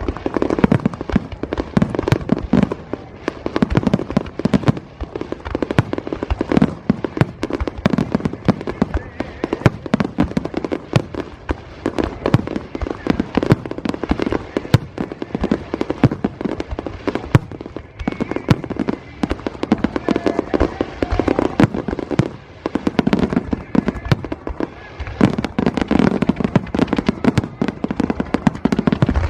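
Fireworks display firing a dense, rapid barrage of shell bursts: many sharp bangs every second, overlapping without pause.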